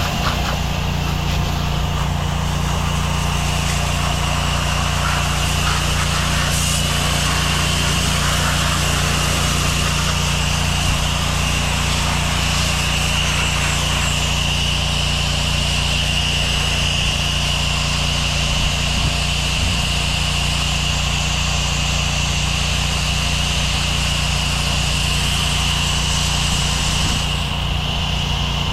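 Gas-engine pressure washer running steadily, its small engine droning under a constant hiss, with a steady high whine throughout.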